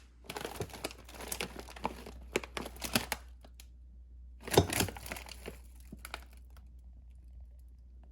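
Packaging crinkling and rustling as it is handled, in two spells of crackling with a short pause between them, the second starting with the loudest crackle and dying away.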